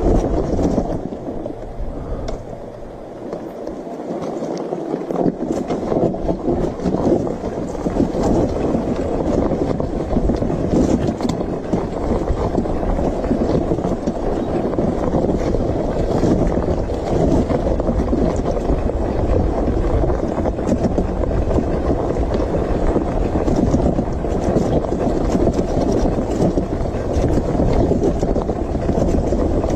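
Steady wind rush on the microphone of a camera riding on a moving motorcycle, with the bike's running noise beneath it. The lowest rumble drops away briefly about three to five seconds in.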